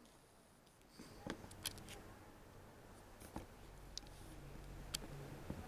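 Faint, scattered small clicks and taps over a faint low rumble that grows slightly louder after about three seconds.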